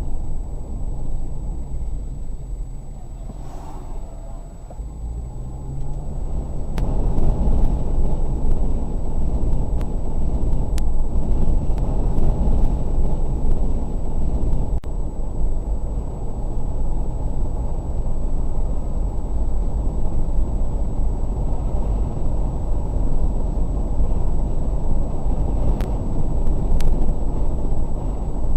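Car driving, heard through a dash cam mic: a steady low engine and road rumble. The engine note rises a few seconds in, and the rumble grows louder about seven seconds in. A few sharp clicks and a thin, steady high whine sit on top.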